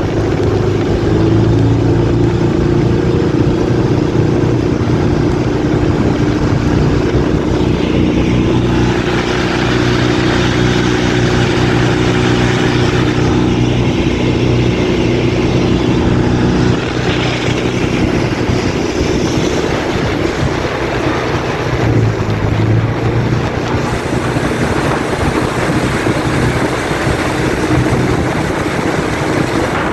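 Inboard engine of a vỏ lãi, a Mekong Delta long-tail speedboat, running steadily under way, with water and wind noise. The engine's steady tone loosens and drops slightly about halfway through.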